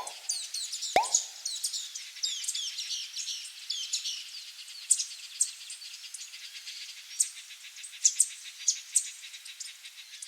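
Many small birds chirping and twittering, with two quick plops at the start and about a second in.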